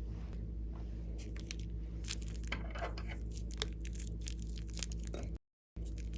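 Slime being worked by hand: scattered sticky crackles and small clicks over a steady low hum. The sound drops out completely for about half a second near the end.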